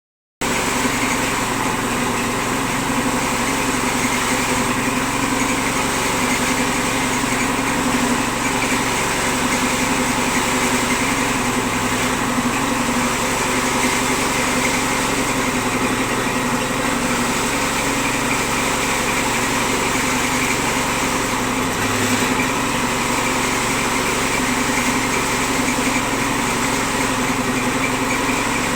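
A machine running steadily at constant speed, with an even hum and hiss that never changes.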